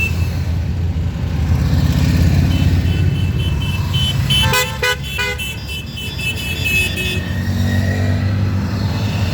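Many motorcycle engines running together, with vehicle horns honking in a quick series of short toots from about two and a half seconds in until about seven seconds in.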